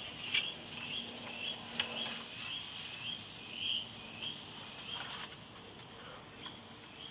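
Outdoor nature ambience: a string of short, high chirps, about three a second, fading out after about five seconds, with a few sharp clicks.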